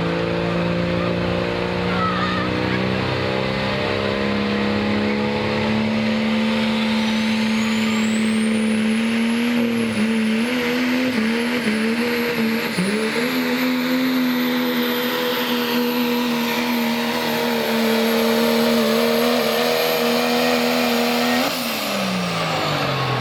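Pro stock diesel pickup truck at full throttle pulling the sled. The engine holds a steady high note that wavers a few times midway, while a high turbo whistle rises and then holds. Near the end the driver lets off, and the engine note and whistle fall away.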